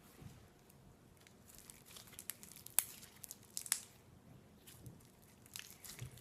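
Slime being squished and stretched by hand, giving faint scattered clicks and pops, a few sharper ones about three and four seconds in and a small cluster near the end.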